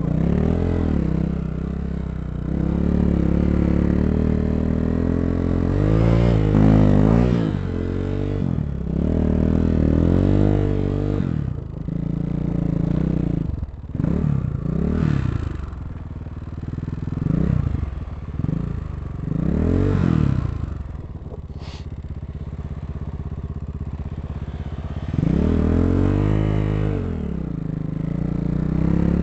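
250 cc dirt bike engine running and revving up and down over and over. It settles into a steadier, quieter run past the middle, then revs up again near the end.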